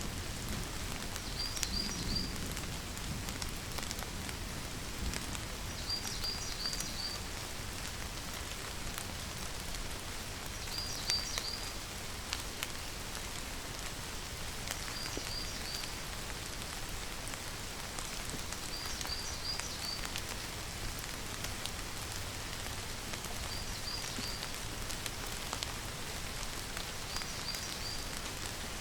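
Steady rainfall pattering without a break. About every four seconds a quick run of three or four high chirps comes through the rain, likely a bird calling.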